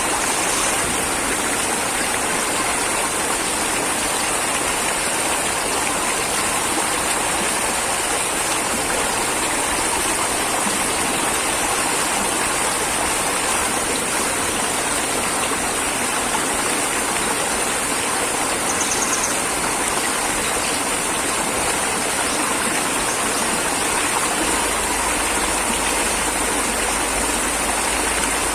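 Steady rushing of flowing water, an even unbroken noise, with a low rumble joining in near the end.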